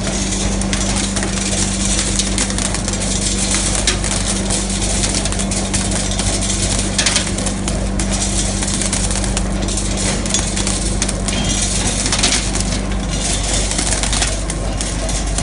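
Glass mosaic production machine running: a motor hum under a dense, continuous clatter and crunch of small glass pieces being cut and tumbling.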